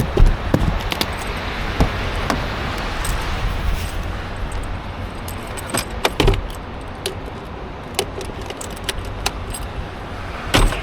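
Many sharp, irregular clicks and clinks over a steady low rumble in a 2023 Nissan Sentra. The clicks bunch together near the start, about six seconds in and near the end.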